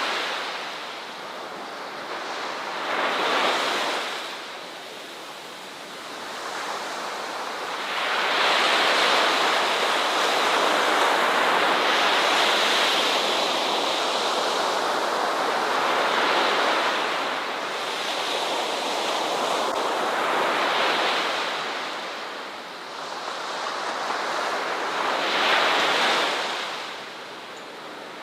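Ocean waves washing onto a beach, the surf swelling and ebbing every few seconds, with a long sustained wash in the middle.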